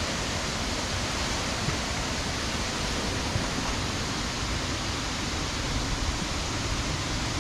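Steady rush of a waterfall and beck in full spate after heavy rain, a constant even roar of water.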